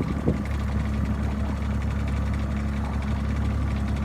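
Boat's outboard motor idling with a steady low hum, and a short knock just after the start.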